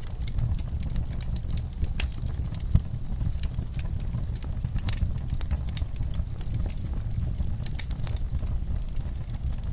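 Fireplace fire crackling and popping: irregular sharp crackles scattered over a steady low rumble, with one louder pop about three seconds in.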